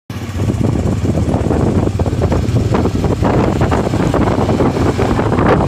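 Honda motorcycle engine running steadily, with wind noise on the microphone.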